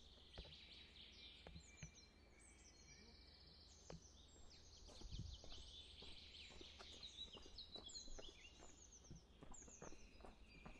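Faint birdsong: small birds giving quick series of short, high, falling notes, with a few soft footsteps.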